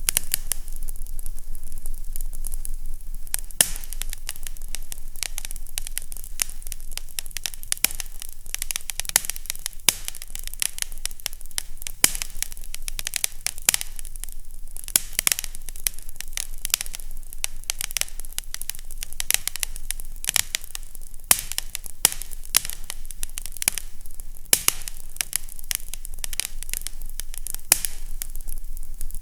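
Fireplace fire crackling, with many quick irregular snaps and pops over a steady hiss, and a faint low hum underneath.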